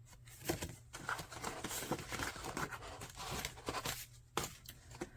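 Packaging and paper inserts rustling and crinkling as they are handled, with a run of small clicks and knocks.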